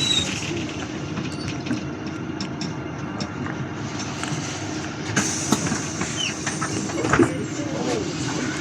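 City bus running, heard from inside: steady engine hum and road rumble, with scattered clicks and rattles.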